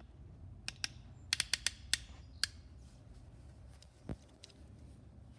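Sharp clicks and small metallic snaps from hooking cable clips up to energize the ignition coil on a Kohler garden-tractor engine: a quick run of clicks in the first two and a half seconds, then one duller knock about four seconds in.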